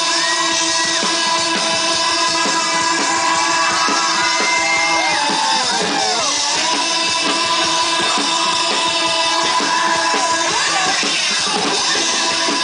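Live rock band playing a song, with a drum kit and electric guitar.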